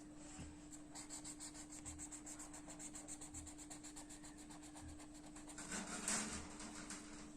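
Rapid back-and-forth strokes of a colouring tool scrubbing on paper as an area is filled in with colour, growing louder and scratchier about six seconds in.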